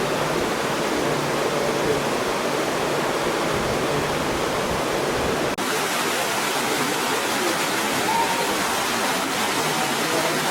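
Steady rush of a mountain waterfall, with a brief break a little past halfway.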